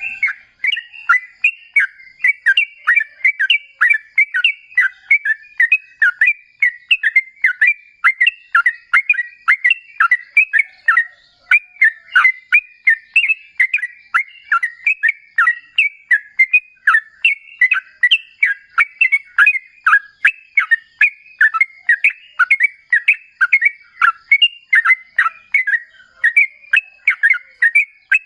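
Yellow-vented bulbul (trucukan) singing a long, unbroken run of rapid, bubbly phrases, several notes a second.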